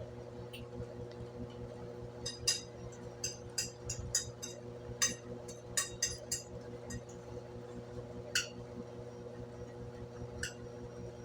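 Brastemp BWK17 washing machine running in its intermediate spin with a steady hum, and about a dozen light, irregular clinks from about two seconds in.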